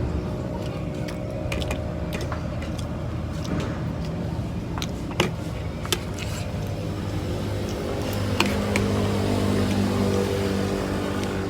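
A motor vehicle's engine running steadily, its pitch rising somewhat about eight seconds in, with a few sharp clinks of cutlery on a plate.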